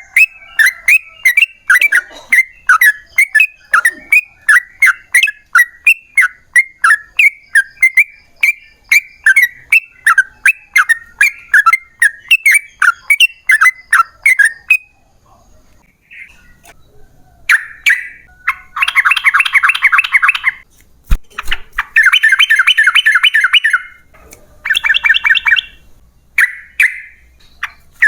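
Yellow-vented bulbul singing: a long run of loud, bubbly repeated notes, about three a second, then after a short pause several bursts of fast rattling trills (the long 'ropel' trill). A single sharp click comes about 21 seconds in.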